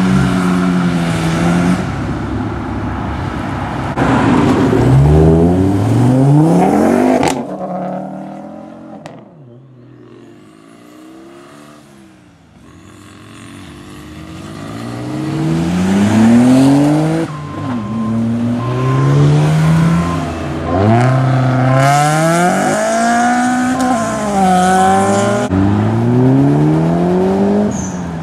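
Modified cars, among them a Volkswagen Caddy pickup and a Nissan Skyline, accelerating hard away one after another. Their engines rev up repeatedly, rising in pitch and dropping at each gear change, with a quieter lull about a third of the way through before the next car pulls away.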